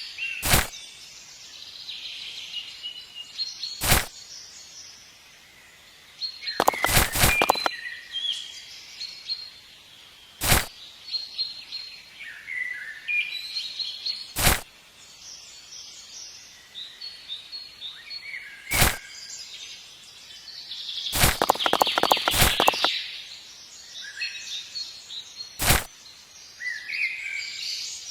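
Birds chirping in the background, broken by loud sharp knocks: single knocks every few seconds and two quick runs of knocks, about a quarter and three quarters of the way through.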